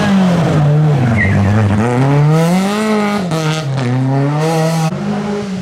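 Rally car engine working hard through a corner: the revs fall over the first couple of seconds, then climb, with two sharp drops in pitch as it shifts up, about three and five seconds in.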